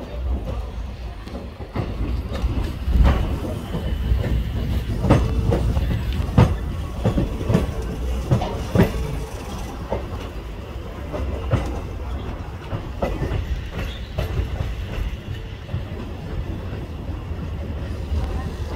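Rumble of a slow-moving train heard from aboard the coach, its wheels clacking irregularly over rail joints and points. The clacks come thickest in the middle and thin out toward the end, with a faint wheel squeal among them.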